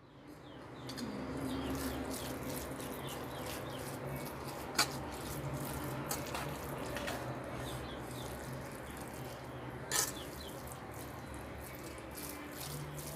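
Steady rush of water in a kitchen, with a low hum underneath and two sharp clicks about five and ten seconds in.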